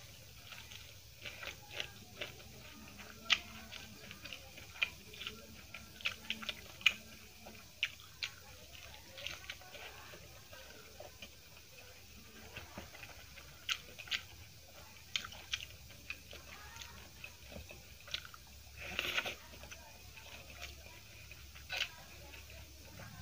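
Close-miked mouth sounds of a person eating: chewing and biting, with irregular sharp clicks and crunches and a longer crunchy burst a few seconds before the end.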